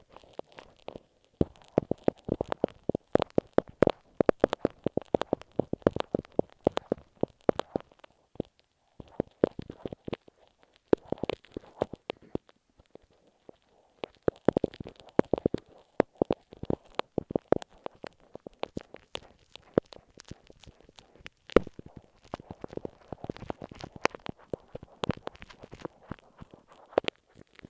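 Glue stick rubbed and pressed against masking tape on an earphone microphone: close, dense sticky crackling and crunching that comes in bursts, with short pauses about eight, twelve and nineteen seconds in.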